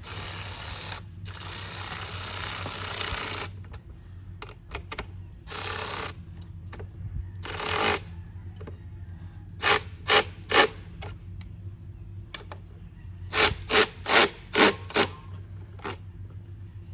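A cordless power tool running in bursts, one long and two short, as it tightens the mounting straps on an air filter canister, then two quick runs of sharp clicks, three and then six.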